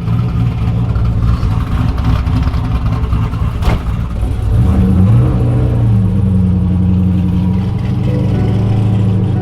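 Car engine running, with a single sharp click about three and a half seconds in; about five seconds in the engine's pitch rises and then holds steady at higher revs.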